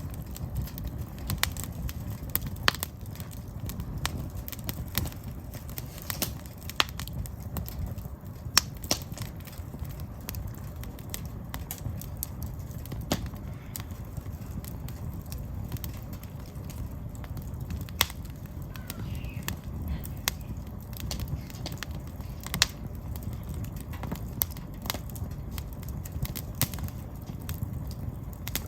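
Firewood burning in an open fire: irregular sharp crackles and pops, a few much louder snaps, over a low steady rumble.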